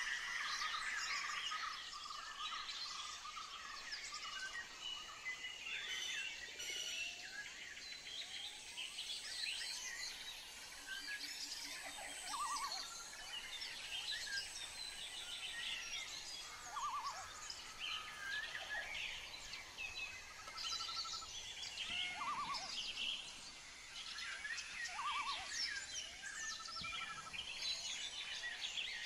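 Songbirds chirping and trilling over a faint steady hiss: many short, quick calls and rapid trills throughout.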